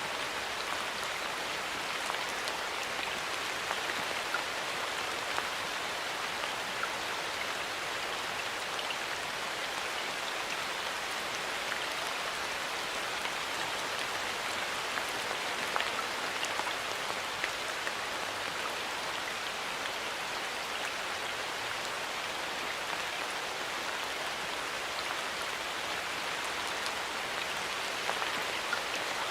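Steady rain falling in a forest, an even hiss with many individual drops ticking on leaves and surfaces.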